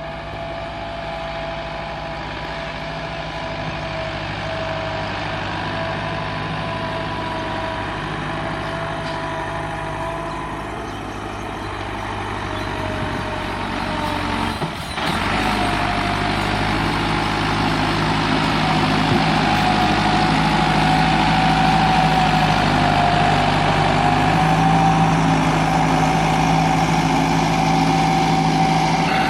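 Massey Ferguson 385 tractor's diesel engine running steadily while pulling a heavy loaded trolley, with a steady whine over the engine note. About halfway through there is a brief break, after which the engine is louder.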